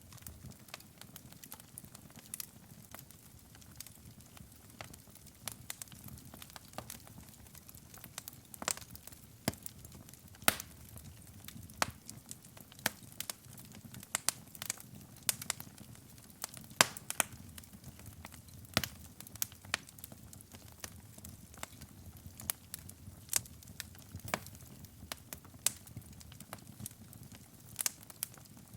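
Wood fire burning in a fireplace: irregular sharp crackles and pops over a low, soft rumble of the flames.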